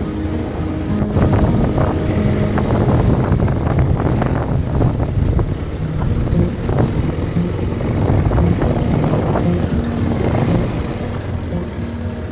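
ATV quad bike engine running while riding, with many short knocks and rattles over it. Background music is faintly underneath.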